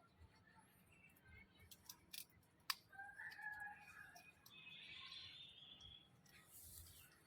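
African grey parrot making quiet chirps and a hoarse, drawn-out squawk, with a few sharp clicks between them, the loudest a little before three seconds in.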